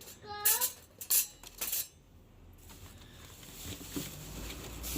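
Metal barbecue utensils or cookware clinking sharply, three or four times in the first two seconds, with a child's short vocal sound near the start. A steady hiss then builds toward the end.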